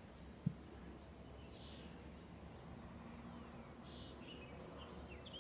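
Faint outdoor ambience: a few short bird chirps over a low steady rumble, with one brief low thump about half a second in.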